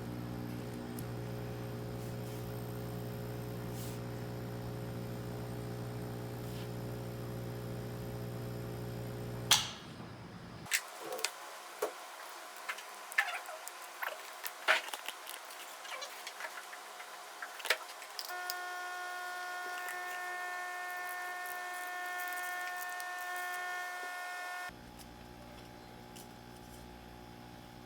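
Aquarium air pump running with a steady low buzz for the first third, cut off by a sharp click. It is followed by a series of clicks and knocks, then a steady higher-pitched hum of several pure tones, and the low buzz returns near the end.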